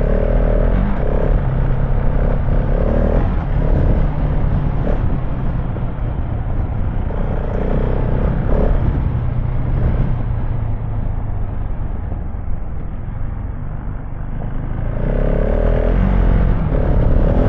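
KTM 690 Enduro R's single-cylinder engine running under way on a gravel trail, with wind and tyre noise throughout. The engine note swells briefly several times.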